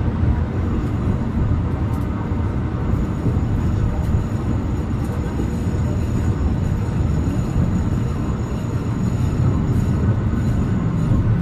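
Alishan Forest Railway narrow-gauge train running on the rails with a steady low rumble and occasional faint clicks. A faint thin high squeal comes in about three seconds in and runs until near the end.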